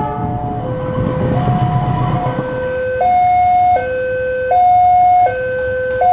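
Railway level-crossing warning alarm sounding its two-tone signal, a lower and a higher tone alternating evenly, each held about three-quarters of a second, growing louder about three seconds in. A low rumble sits under it in the first two seconds.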